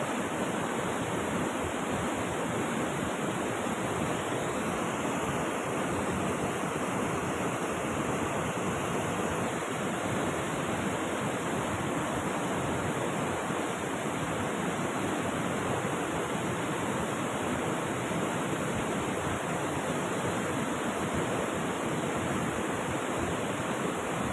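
Steady, unbroken rush of flowing river water, as at rapids or a waterfall.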